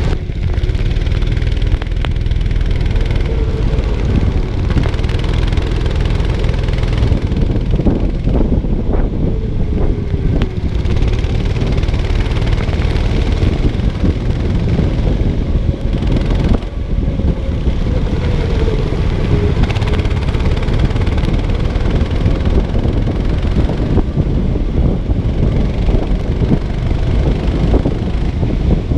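Go-kart engine running through a race lap, its note slowly falling and rising as the kart slows and speeds up, under a heavy, steady rush of noise.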